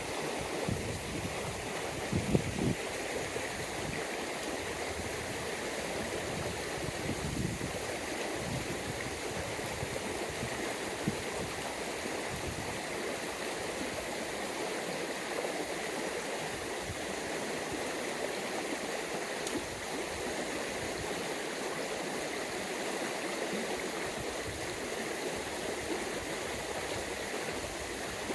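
Small upland stream running steadily over rocks. A few short thumps about two seconds in, and a single knock about eleven seconds in.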